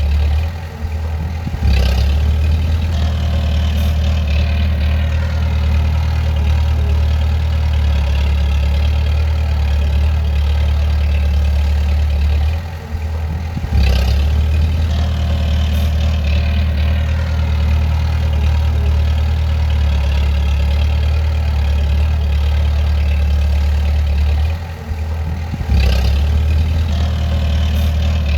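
Bulldozer's diesel engine running steadily with a deep hum. Three times, near the start, about halfway and near the end, the sound drops for about a second and then comes back suddenly at full level.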